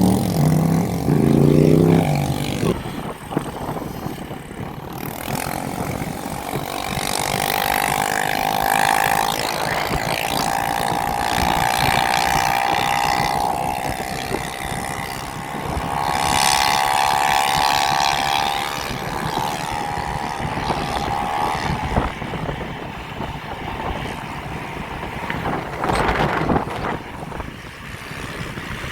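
Electric bike motor whining while riding, its pitch climbing slightly and then fading, over a steady rush of wind and road noise.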